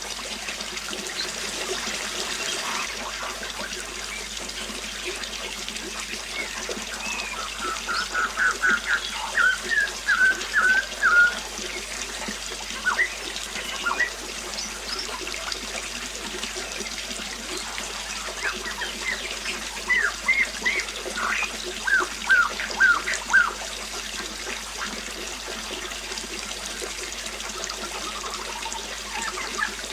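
Water trickling steadily, with a bird calling in two runs of quick repeated notes, about a third of the way in and again around two-thirds through.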